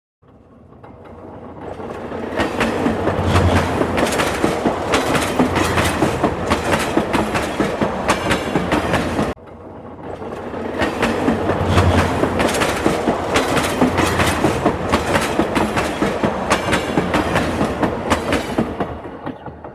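Train running on rails, its wheels clattering over the rail joints in a rapid string of clicks. The sound builds up, breaks off abruptly about halfway through and then builds up again.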